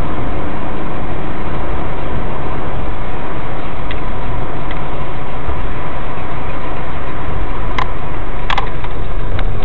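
Loud, steady vehicle engine and road noise, with a faint steady high tone and two sharp clicks near the end.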